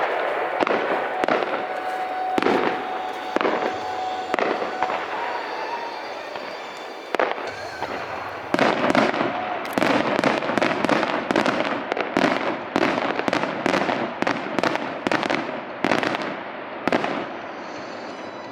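Aerial fireworks shells bursting in a rapid barrage of loud bangs, sparser at first and then a dense run of about two bangs a second from about halfway through.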